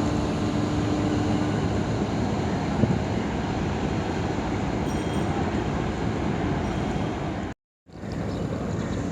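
Steady rumble and rush of a large river passenger launch under way: engine noise mixed with wind and water. A steady low tone sounds until about a second and a half in, and the sound cuts out for a moment near the end.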